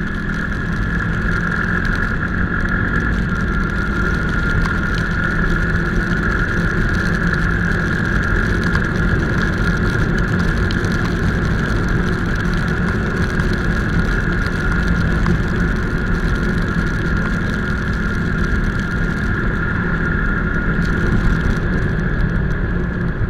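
Motorcycle engine running steadily at an even pace.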